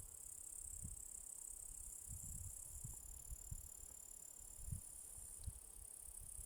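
Grasshoppers chirring, a steady high-pitched trill, with scattered soft low thumps.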